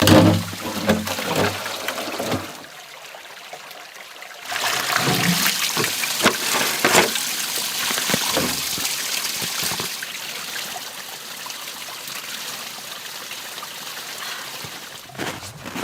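Water pouring and trickling, a steady rush that begins about four and a half seconds in and slowly fades, after a few knocks and handling sounds at the start.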